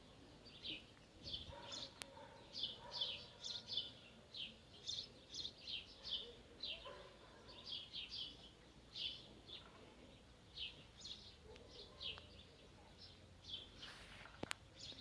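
Small birds chirping: short, high chirps repeated several times a second, on and off.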